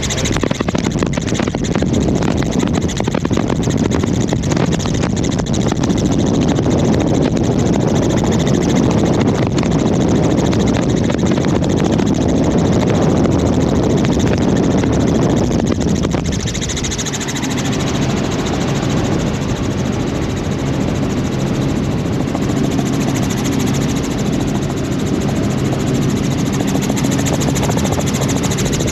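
Helicopter engine and rotor noise heard from aboard in flight: a loud, steady rushing drone. About sixteen seconds in, the rushing eases and a steadier hum with a low tone comes through.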